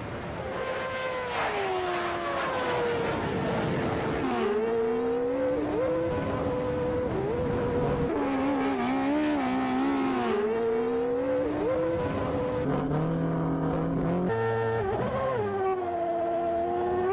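High-revving race car and sports car engines accelerating hard at full throttle. Their pitch climbs and drops sharply again and again as they shift up through the gears, and several engine notes overlap.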